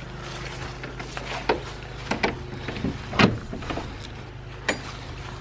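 A few scattered knocks and clicks, the loudest about three seconds in and a sharp metallic click near the end, over a steady low hum.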